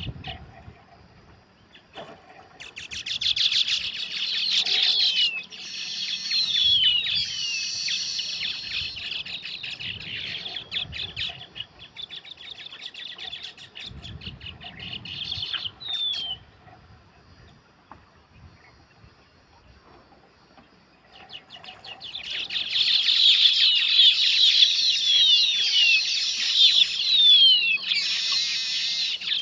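Weaver birds chattering: dense, rapid, high-pitched chatter with quick down-slurred whistles, in two long bouts separated by a quieter stretch in the middle.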